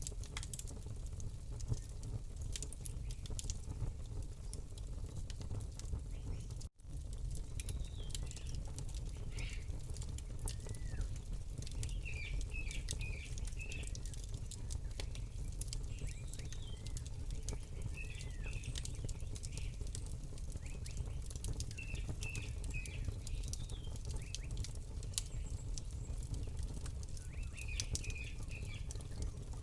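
Campfire crackling, with frequent sharp pops and snaps over a steady low rumble. Small birds chirp in short, repeated bursts from about eight seconds in. The sound cuts out for an instant about seven seconds in.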